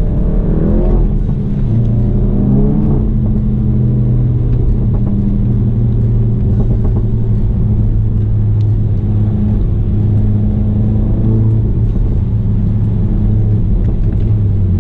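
Turbocharged 2.0-litre four-cylinder engine of an APR Stage 2 tuned Mk7 VW GTI, with APR intake and downpipe, pulling along under light throttle, heard from inside the cabin. The engine note rises and falls a couple of times in the first few seconds, then holds a steady drone.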